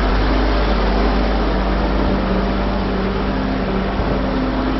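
Truck diesel engine running steadily at close range, a continuous loud drone with a low hum underneath.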